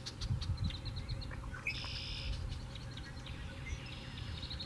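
Birds calling: a run of short, high chirps near the start and a buzzy high call about two seconds in, over a low rumble of wind on the microphone.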